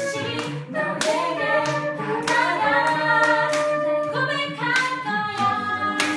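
A small vocal group singing a cappella in close harmony, sustained chords moving from note to note, with sharp percussive hits marking the beat.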